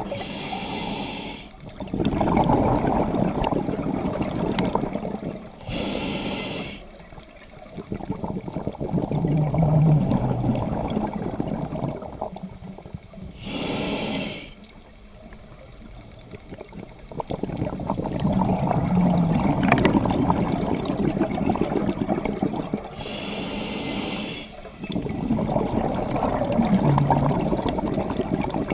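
Scuba diver breathing through a regulator underwater, about four breaths. Each starts with a short, high hiss as the diver inhales, followed by a longer rush of bubbling exhaust bubbles.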